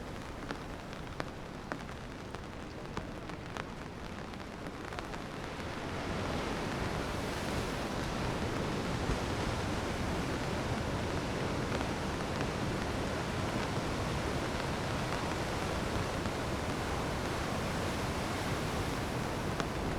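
Rain with scattered drops ticking for the first few seconds, then the steady, louder rush of sea waves breaking on rocks sets in at about six seconds and carries on.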